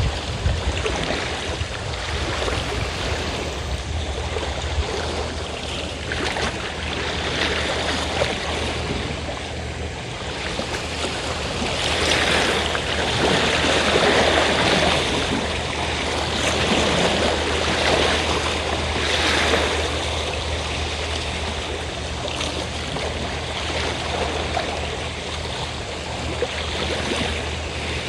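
Sea waves washing onto the shore in a continuous hiss that swells louder through the middle with several surges. A steady low hum runs underneath.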